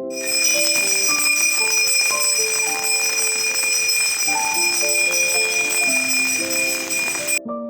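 Continuous bright bell ringing, starting abruptly and cutting off suddenly near the end, over soft piano background music.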